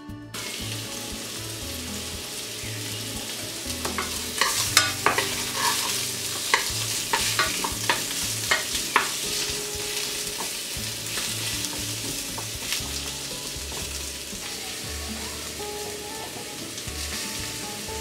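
Green asparagus sizzling as it fries in butter in a frying pan. A wooden spatula knocks and scrapes against the pan several times as the spears are turned, mostly between about four and nine seconds in.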